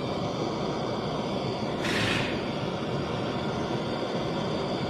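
Steady workshop background noise, with one brief hiss about two seconds in.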